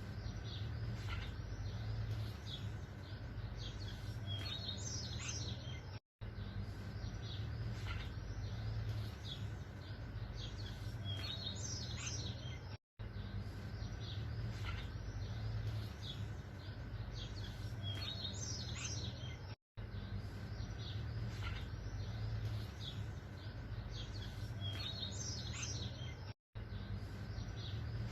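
Birds chirping and calling over a steady low background hum. It is a short loop that repeats about every seven seconds, with a brief dropout to silence at each restart.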